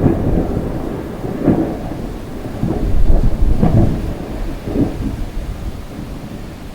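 Thunder rumbling in low rolls that swell and fade several times, with rain falling.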